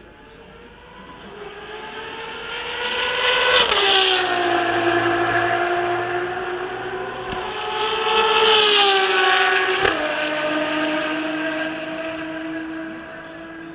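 Two Ferrari race cars passing by at speed, one after the other. Each engine note rises and grows louder as the car approaches, then drops sharply in pitch as it goes past, about four seconds in and again about ten seconds in, and fades away afterwards.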